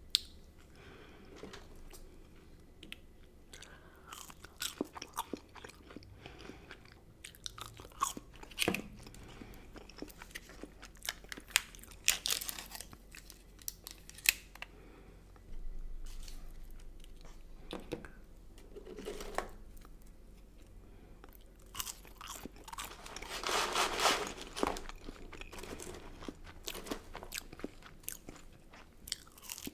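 Close-miked eating: a person biting and chewing fast food with irregular crisp crunches and wet chewing clicks, with a longer, louder stretch of crunching about 23 seconds in.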